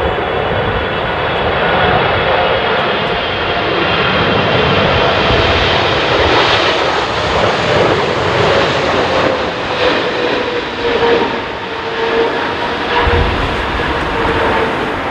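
Boeing 777 airliner's jet engines running loud and continuous. A steady whine slowly shifts in pitch over a heavy rush of jet noise.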